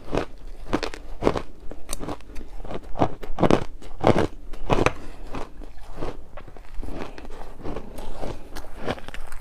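Ice being bitten and chewed close to the microphone: a quick run of sharp crunches and crackles, a few a second, loudest near the middle.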